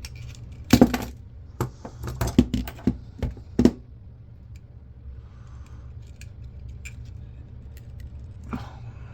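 Sharp clicks and clinks of hand tools and small metal and plastic parts as a 1982 General Electric camcorder is taken apart. A cluster of them comes in the first four seconds and a few more near the end, over a steady low hum.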